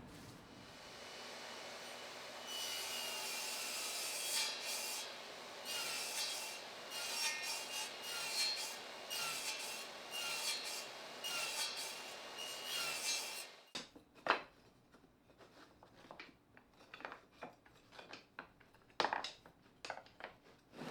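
Repeated back-and-forth strokes of a hand tool working wood, about one every second and a half, for some ten seconds. They stop abruptly and are followed by scattered light knocks and clicks.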